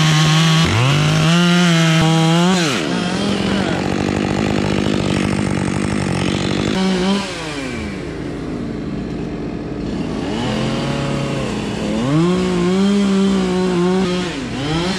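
Chainsaw revving up and cutting into fir wood, held steady under load for several seconds. It drops back about seven seconds in, then revs up again and falls back near the end.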